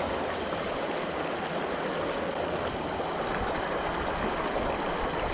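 Steady rushing of a river running high after floods, an even wash of flowing water with no change in level.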